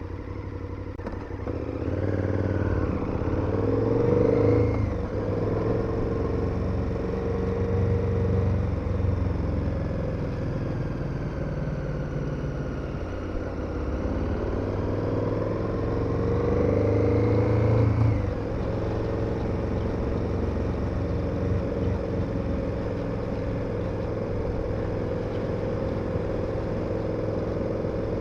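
KTM 1290 Super Adventure's V-twin engine under way, heard from the rider's position. It pulls with rising revs twice, a few seconds in and again past the middle, each time dropping abruptly at a shift or throttle-off, and runs steadily in between.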